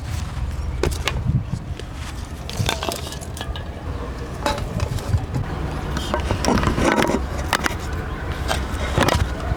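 Irregular clinks, knocks and scrapes of cooking gear and dishes being handled, over a steady low rumble.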